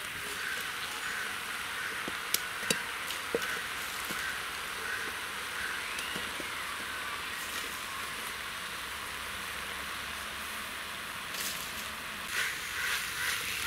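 Drumstick leaves sizzling steadily in an aluminium pot over a wood fire. A few sharp knocks come about two to three seconds in.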